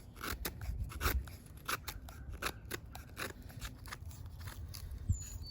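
Swiss Army knife blade shaving dry, weathered wood in quick, short strokes, a run of sharp scraping cuts several a second while a fireboard is flattened.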